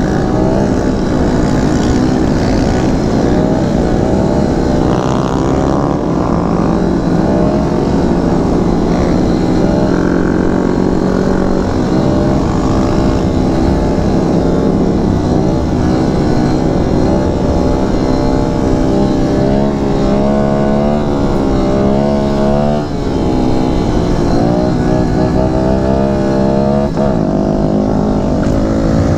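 Kawasaki Z125 Pro's small single-cylinder engine running under load as the bike is ridden, the revs climbing and dropping with throttle and gear changes, with wind rumble on the microphone.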